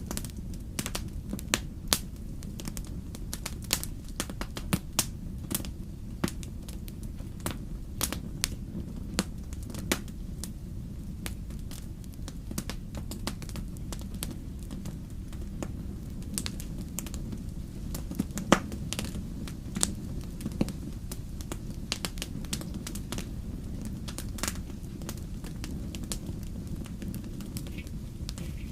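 Firewood burning in a fireplace, crackling with irregular sharp pops over a steady low rush.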